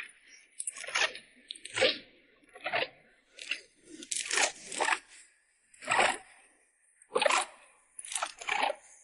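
A dog chewing crunchy food, loud separate crunches about once a second at an uneven pace.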